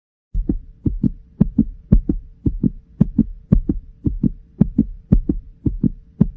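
Heartbeat sound effect: a fast, regular lub-dub of paired low thumps, about two beats a second, over a faint steady hum.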